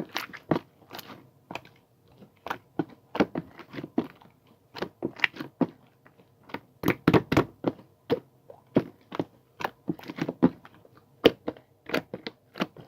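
A rapid, irregular series of short crunches and clicks, several a second, with brief pauses between runs.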